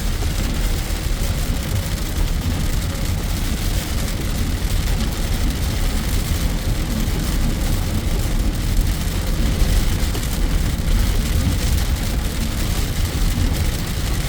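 Heavy rain on a moving car, heard from inside the cabin: a steady wash of rain noise over a constant low road-and-engine rumble.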